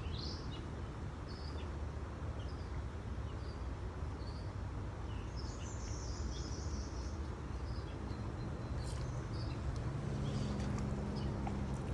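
Outdoor creekside ambience: scattered short bird chirps over a steady low rumble.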